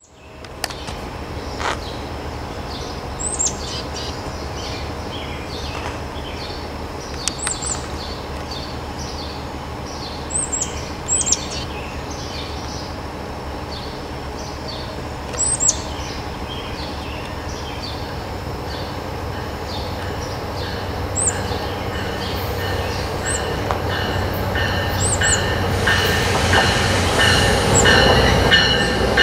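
Birds chirping in short repeated calls over a steady low rumble. Over the last several seconds an approaching MARC commuter train grows louder, with a steady high ringing from its wheels on the rails near the end.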